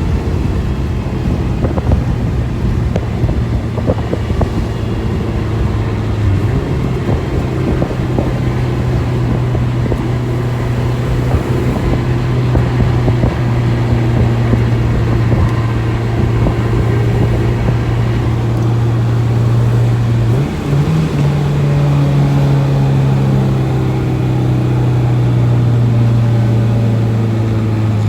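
Honda K20 four-cylinder engine in a K-swapped 2000 Civic running steadily under way. Its pitch steps up about six seconds in, then dips briefly and steps up again about twenty seconds in.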